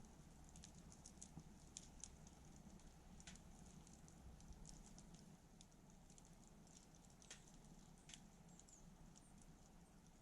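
Wood campfire crackling softly: faint, irregular ticks and pops, with a few sharper snaps.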